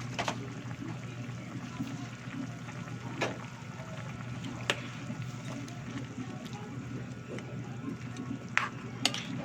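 Chicken afritada simmering in tomato sauce in a pan, a steady bubbling hiss, with a few sharp clicks, about five, scattered through it.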